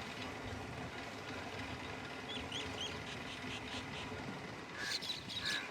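Short high chirping calls, three small rising ones around the middle and a louder cluster near the end, over a steady low engine hum.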